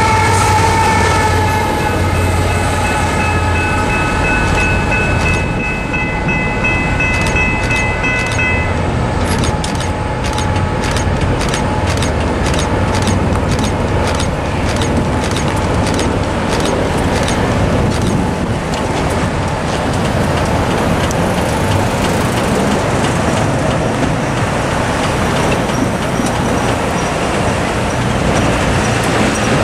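A BNSF GE ET44ACH distributed-power diesel locomotive at the tail of an empty coal train rolls through the crossing, with an engine rumble and steady whining tones that die away over the first several seconds. The crossing's electronic bells then ding in quick, even strikes while the gates go up, stopping about twenty seconds in. Road traffic then moves across the tracks.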